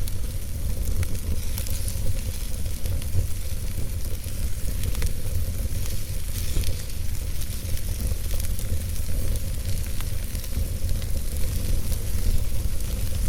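Wood fire burning in a fireplace: a steady low rumble and hiss with scattered sharp crackles of the burning wood.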